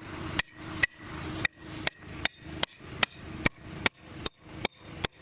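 Hammer striking metal about a dozen times at an even pace, two to three blows a second, driving a tool in between a JCB loader tyre's bead and the rim.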